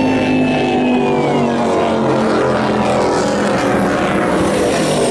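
Engines of high-performance racing powerboats running loud and steady as the boats pass close by, with a high tone that falls slightly in pitch over the first second or so.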